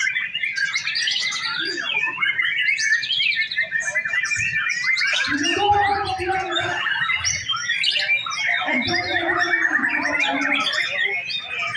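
White-rumped shama (murai batu) singing continuously, a varied stream of rapid trills, chirps and whistles. Twice, near the middle and again later, a lower, voice-like sound joins in for a second or two.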